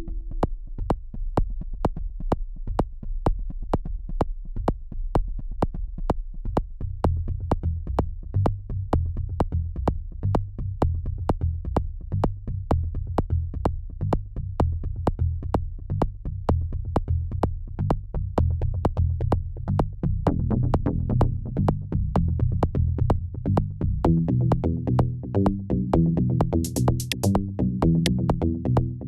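Live techno played on Korg Volca Drum, Volca Bass and Volca FM synthesizers: a steady drum-machine pulse. A bass line comes in about seven seconds in, and higher synth notes join about twenty seconds in, with a short burst of hiss near the end.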